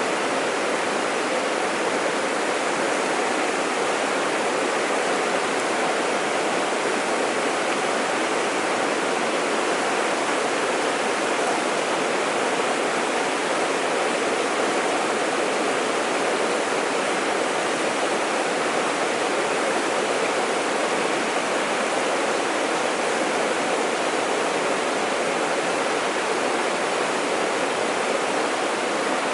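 Fast-flowing mountain stream water rushing steadily and loudly, an even unbroken wash of water noise.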